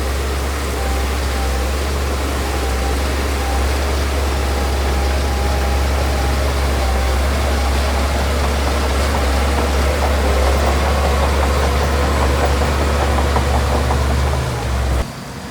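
Heavy diesel engine of earthmoving machinery running steadily: a deep, loud drone with a higher whine over it. The sound drops off suddenly near the end.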